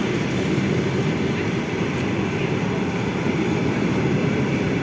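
A train going by on the rails: a steady rumble of wheels and carriages, with no change in loudness.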